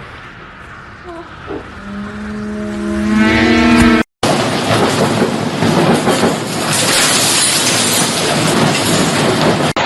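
Very strong wind blasting the phone's microphone: a rush of noise, with a held, slightly rising pitched tone for about two seconds before a brief cut about four seconds in, after which the wind noise is loud and even.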